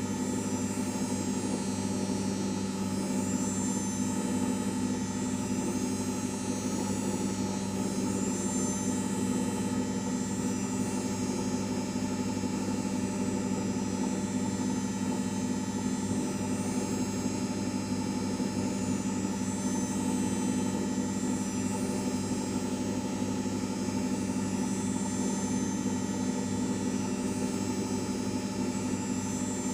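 LG 5 kg washing machine running with a steady, unchanging hum and whine.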